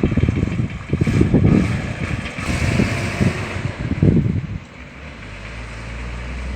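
Road vehicle noise, with uneven low rumbling buffets like wind on the microphone; about four and a half seconds in it eases to a steady low engine hum that grows slowly louder.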